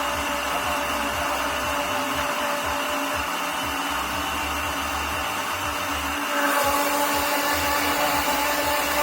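Kitchen blender running steadily, mixing cake batter of boxed cake mix, eggs and milk. It gets a little louder and higher about six and a half seconds in.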